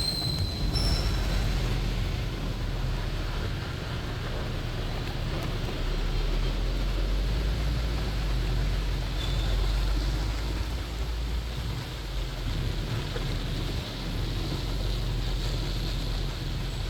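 Steady low rumble of a double-decker bus on the move, with an even hiss over it, and a brief high squeal at the start.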